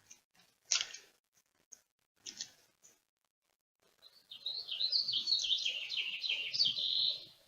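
A small bird chirping and warbling in quick, busy notes for about three seconds, starting about four seconds in. It is preceded by a few short rustles.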